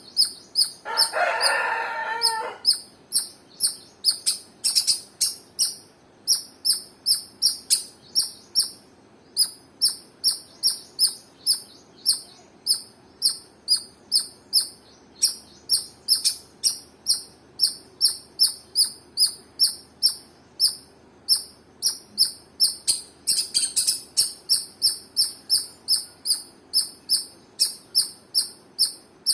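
Squirrel chirping: a long, even series of short, sharp, high chirps, about two a second. About a second in, a louder, lower call overlaps the chirps for a second and a half.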